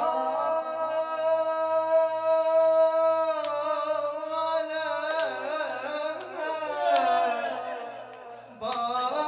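Male chanter of a Shia mourning lament singing a long held note, then a wavering, ornamented melodic line that fades out before the group chant comes back in near the end.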